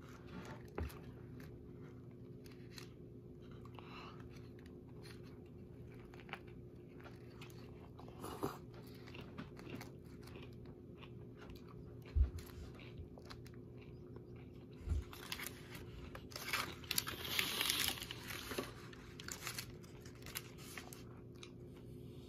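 A person biting and chewing a turkey sub close to the microphone: scattered wet clicks and crunches, with a busier, louder stretch of chewing about two-thirds of the way through.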